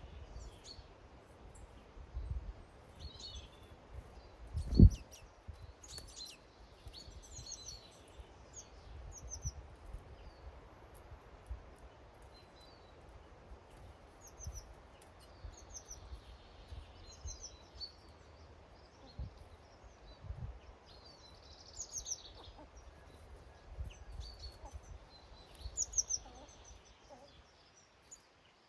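Small garden birds making short, high chirping calls on and off throughout, with a single low thump about five seconds in.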